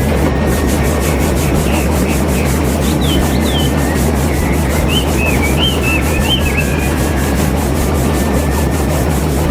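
Small motor of a homemade miniature farm machine running steadily with a rough, grinding rasp.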